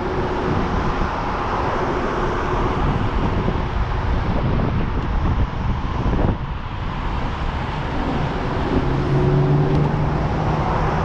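Steady wind and rolling rumble buffeting an action camera's microphone while riding. A low steady hum joins about nine seconds in.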